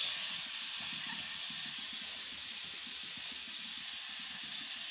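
Grated radish sizzling in hot oil in a kadhai, a steady hiss that eases off in the first second and then holds.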